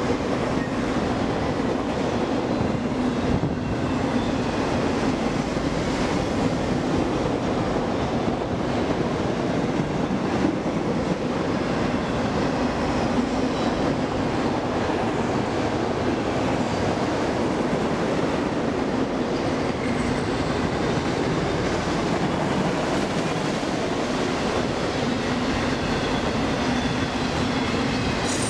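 A CSX freight train's autorack cars roll past close by, with a steady, continuous rumble and rattle of steel wheels on rail. Faint high-pitched wheel squeals come and go.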